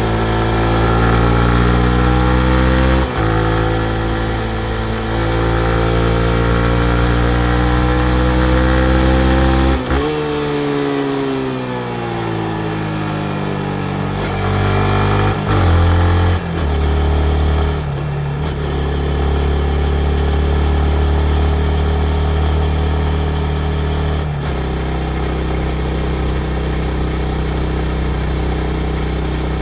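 2019 Yamaha MT-15's 155 cc single-cylinder engine under way on the road. It pulls up in pitch for the first ten seconds, with a short break about three seconds in. The pitch then falls as it slows, and the engine settles to a steady note for the second half.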